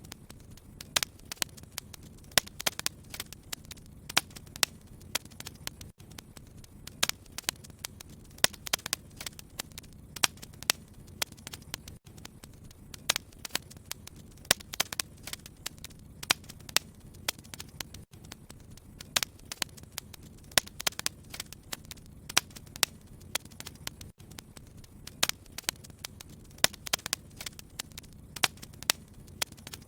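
Wood fire crackling in a fireplace: frequent, irregular sharp snaps and pops over a low, steady rumble of the flames.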